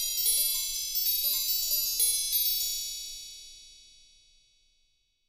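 Bright, high chime notes struck in a loose run, several a second, each ringing on; they die away about four seconds in.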